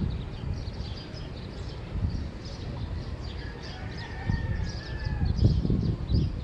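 Small birds chirping at dawn, short high calls all through, with a rooster crowing once from about three and a half seconds in. A low rumble runs underneath and grows louder near the end.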